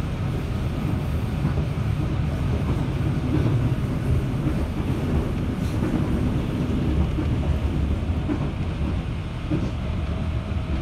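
Steady running noise heard inside a JR 211-series electric train under way: an even, low rumble of wheels on rail and the car's running gear.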